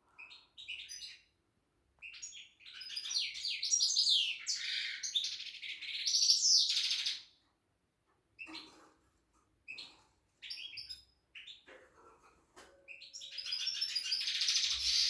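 A songbird singing: long, fast, twittering phrases of high trills and chirps, the loudest from about two to seven seconds in and again near the end, with short separate chirps and brief pauses between.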